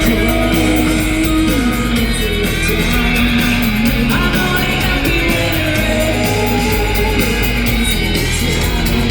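Rock band playing live, with electric guitars over bass and drums in a passage without lyrics.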